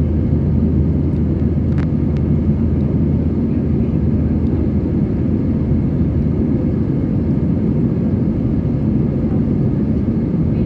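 Airbus A320 cabin noise after takeoff: a steady low roar of the engines and airflow heard inside the passenger cabin.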